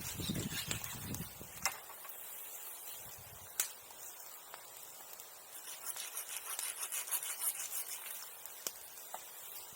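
Wood scraping and rubbing in rapid strokes, with a few sharp cracks.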